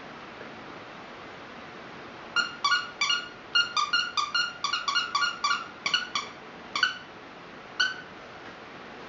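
Squeaky toy bone being bitten by a puppy: a quick run of about twenty short, high squeaks that each dip in pitch, starting about two seconds in, then two last squeaks spaced further apart.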